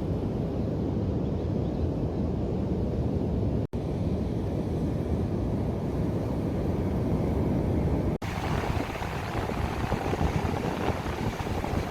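Steady, loud rumble of strong wind buffeting the microphone during a storm, broken twice by brief dropouts.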